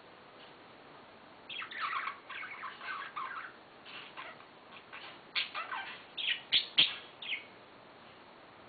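Pet budgerigars chirping and chattering in two short spells, the first about a second and a half in and the second around five seconds in, with one sharp tap near the end of the second spell.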